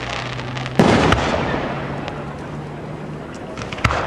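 Fireworks display: an aerial shell bursts with a loud bang about a second in, a second report follows at once, and the sound dies away in rumbling crackle. A sharp crack comes near the end.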